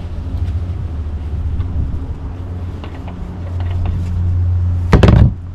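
A steady low rumble that grows louder about three and a half seconds in, then a single loud knock shortly before the end.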